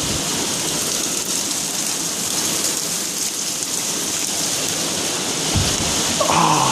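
Heavy rain pouring down, a steady, dense hiss of falling drops. A brief voice sounds near the end.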